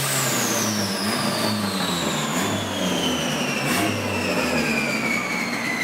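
Turbocharged B20V Honda Integra on a chassis dyno just after letting off at the end of a pull: a high whine falls steadily in pitch as the car and dyno rollers spin down, over the engine's low, uneven running.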